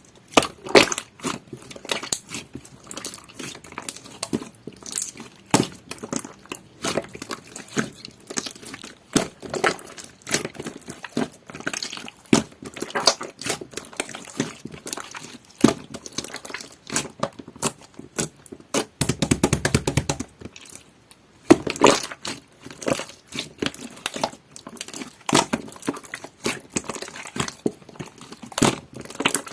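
Large batch of clear, jelly-textured slime being squeezed and worked by hand: a continuous run of irregular wet squelches, clicks and small popping air bubbles.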